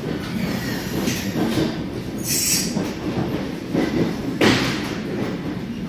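Ride inside a moving electric commuter train carriage: steady rumble of wheels on the rails, with a brief hiss about two and a half seconds in and a sharp knock about four and a half seconds in.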